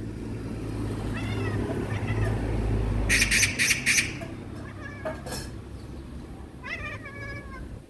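A cat chattering at a magpie, making short chirping calls that rise and fall in pitch, several times. About three seconds in comes a harsh rattling burst of five quick strokes, the magpie's chatter.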